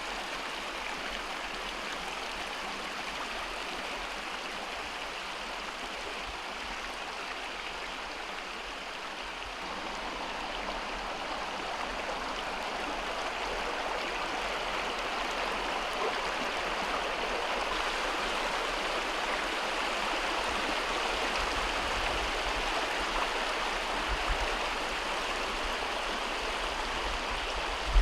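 Steady rushing of running water, an even hiss with no breaks that slowly grows louder, with a low rumble building up in the second half.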